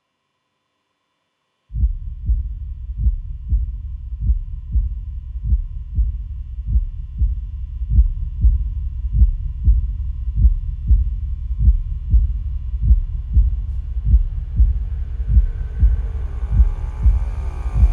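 Heartbeat sound, a low muffled pulse thudding evenly about every 0.6 seconds after a moment of silence. A faint steady high tone sits underneath, and a rising swell of brighter noise builds near the end.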